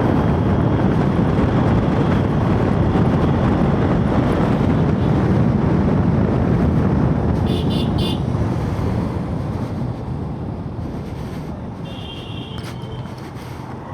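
Motorcycle on the move: engine, road and wind noise that eases off in the second half, as if slowing. Two short horn toots, about halfway through and near the end.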